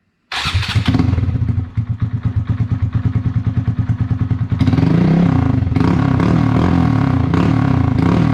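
Honda Grom's single-cylinder four-stroke engine running through a Zoom aftermarket exhaust. It comes in suddenly, idles with a fast, even pulsing beat, and from about halfway it is throttled up louder, rising and falling.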